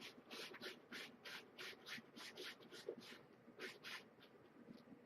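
A cat digging in cat litter in a litter box: faint, quick scratching strokes, about three a second, that stop a second before the end.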